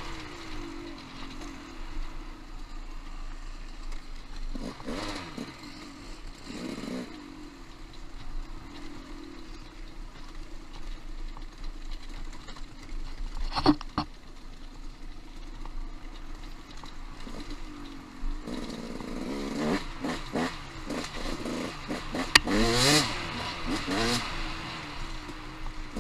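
Off-road motorcycle engine running as the bike is ridden, mostly steady with several rises and falls in revs and the strongest burst of revving near the end. A sharp knock about halfway through.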